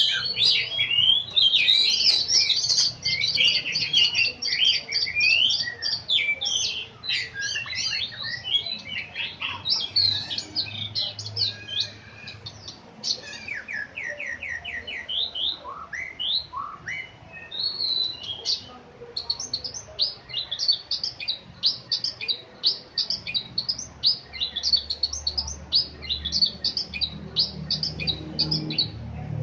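Oriental magpie-robin (kacer) singing a long, varied song of quick whistled phrases and rapid repeated notes, softer for a few seconds around the middle.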